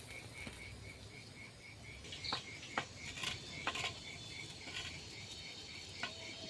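A cricket chirping steadily, a short high pulse about three times a second, with a few scattered sharp clicks and knocks around the middle.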